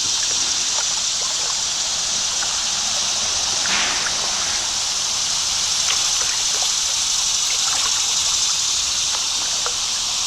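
Creek water running steadily around a kayak drifting downstream with the current, a continuous rushing hiss with a few scattered small splashes.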